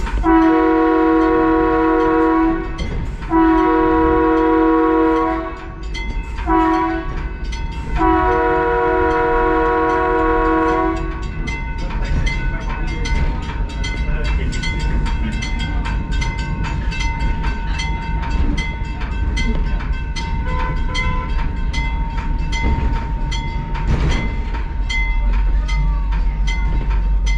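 Train horn sounding the grade-crossing signal (long, long, short, long), then the train rolling along the track with a steady clickety-clack of wheels over the rail joints.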